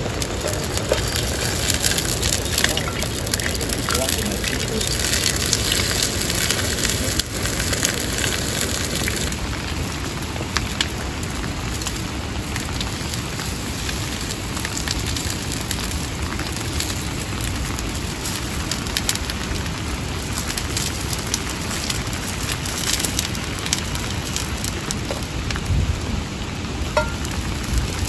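Steady rain falling, with scattered small crackles from a wood campfire.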